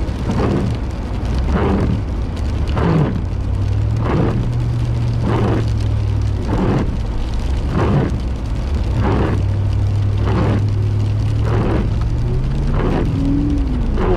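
Car engine pulling hard in an attempt to drive up a slick hill, a steady drone that climbs in pitch near the end; the car does not make it up. A regular swish repeats about every second and a quarter.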